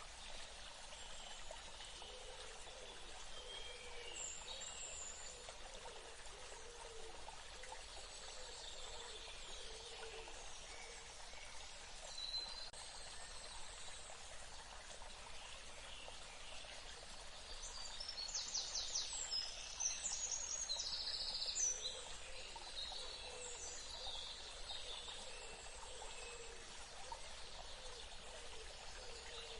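A steady trickle of running water with birds calling over it. About two-thirds of the way through, a louder run of quick, repeated high bird notes stands out.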